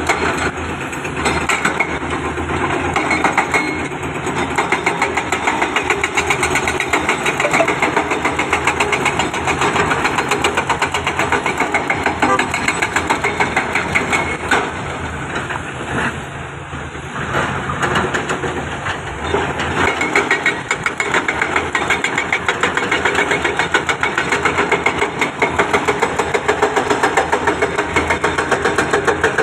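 Heavy diesel engine of an excavator running steadily with a fast, even pulse, easing off briefly past the middle before picking up again.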